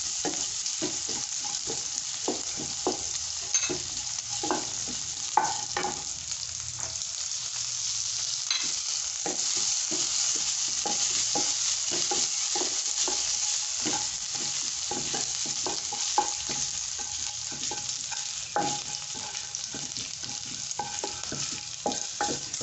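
Garlic, ginger, green chillies and cumin sizzling in hot mustard oil, with a steady hiss, while a wooden spatula stirs and scrapes the pan in frequent short strokes.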